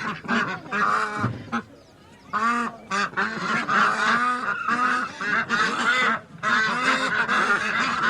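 A flock of ducks and geese calling excitedly: many short overlapping honks and quacks, easing off briefly about one and a half seconds in before picking up again.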